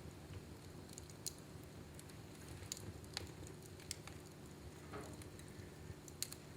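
Wood fire burning in a fireplace: irregular sharp crackles and pops, about one a second, over a faint steady low hum.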